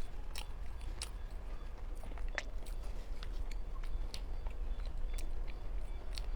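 Close-up chewing and biting sounds of someone eating a flaky-crust mooncake: irregular soft clicks and crunches, a few a second, over a steady low hum.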